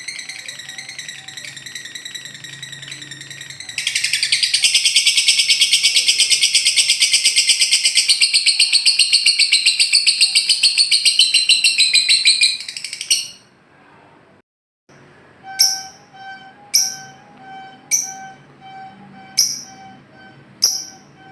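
Lovebird 'ngekek': a long, loud, very rapid chattering trill held for about nine seconds, after a quieter buzzy call. After a short break it gives sharp single chirps about once a second.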